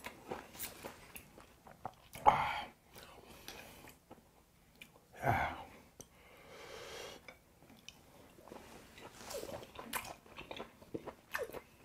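Close-miked chewing of raw beef, with small wet mouth clicks throughout and two louder breathy mouth sounds a few seconds apart in the first half.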